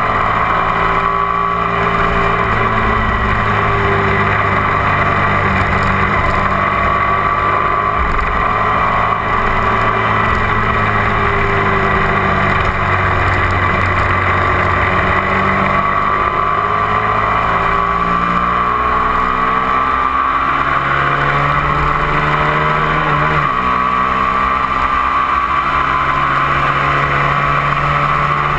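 Onboard sound of a 250 cc twin-cylinder sport motorcycle engine pulling at highway speed, with wind rushing past. The engine note rises and falls steadily, with a brief break in it about 23 seconds in.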